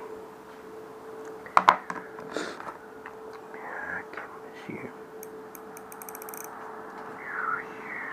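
Small parts of a spinning reel's bail arm and line roller clicking and tapping as they are handled and fitted back together. A sharp double click comes about one and a half seconds in, and a quick run of fine clicks comes later, over a steady faint hum.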